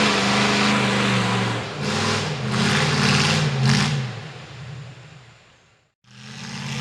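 Mega mud truck's V8 with open headers, running loud and steady, then revved in several quick blips about two seconds in. The engine sound then dies away to nothing and comes back near the end.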